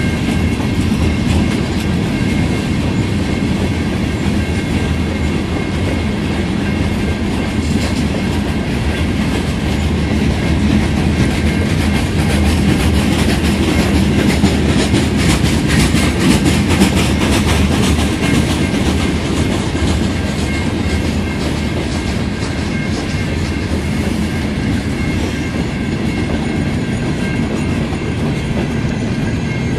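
Hopper cars of a long freight train rolling steadily past, steel wheels clicking over rail joints above a continuous rumble.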